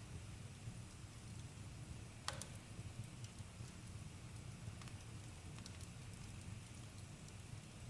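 Campfire crackling faintly: a steady low rumble with sparse, sharp pops, the loudest a little over two seconds in.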